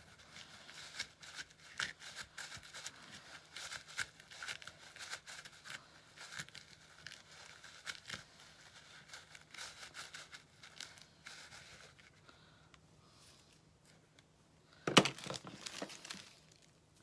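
Crafting materials being handled: irregular small crinkles, crackles and rustles, thinning out after about 12 s, with one louder tearing crinkle about 15 s in. A faint steady hum lies underneath.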